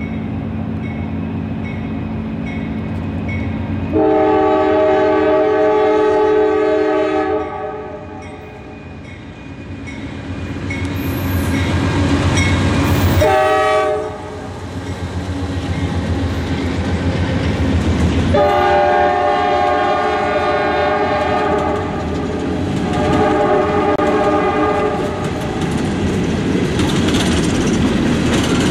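Two GE C44-9W diesel locomotives pass with a low engine rumble, sounding their air horn in several blasts, the longest about three seconds. A crossing bell rings faintly in the first part. After the locomotives go by, the empty coal cars roll past with their wheels clicking over the rail joints.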